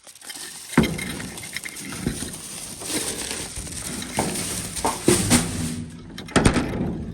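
Footsteps of a person walking, with loud rustling and several sharp knocks.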